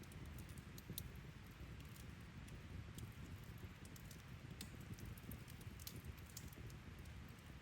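Faint outdoor ambience: a steady low rush with scattered light, irregular crackles and ticks.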